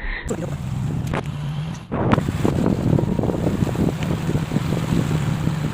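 Motorcycle engine running under way, a steady low drone, with wind buffeting the microphone. The sound breaks off and restarts about two seconds in.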